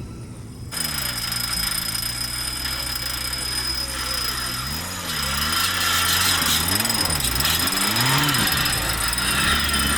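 Off-road vehicle engine revving up and down again and again, with a steady high whine above it.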